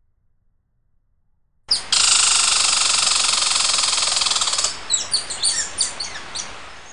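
Songbird calling: a loud, buzzy trill lasting about three seconds that starts suddenly about two seconds in, then a run of quick chirps that drop in pitch.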